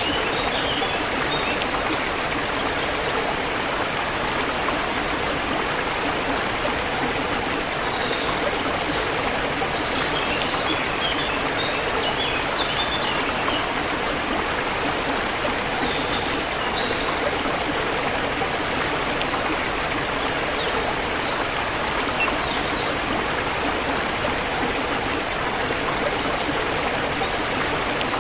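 Forest river water flowing steadily, with faint short bird chirps now and then.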